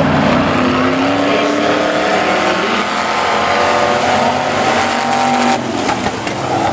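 Demo trucks racing on a speedway track, several engines running hard with revs rising and falling.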